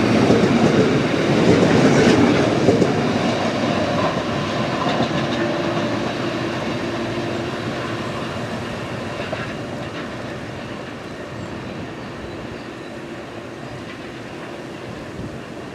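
A train passing on the line, with wheel and track noise loudest at the start and fading steadily as it draws away.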